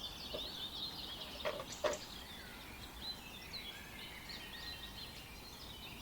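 Small birds chirping faintly and continuously, with two light knocks about a second and a half in.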